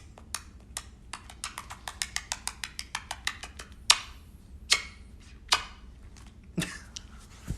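A run of sharp taps, irregular at first, quickening to about six a second in the middle, then four louder taps spaced almost a second apart.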